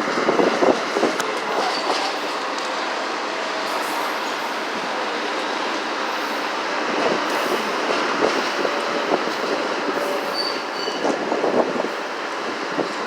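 Excursion passenger train rolling past, with steady wheel-and-rail noise and clattering over rail joints, loudest in the first second. A brief high wheel squeal comes a couple of times.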